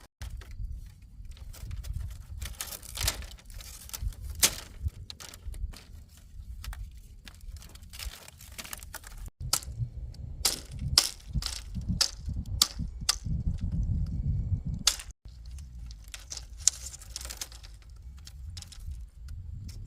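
Irregular sharp knocks and cracks, some close together and some spaced out, over a steady low rumble, broken off abruptly three times.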